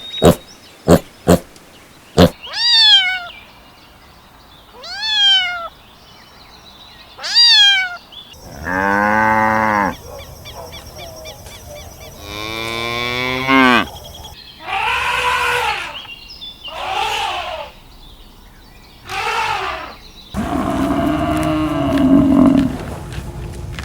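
A string of farm animal calls, among them cattle mooing in several long calls. The calls open with quick sharp clicks and three short high calls, and a different lower steady call comes in near the end.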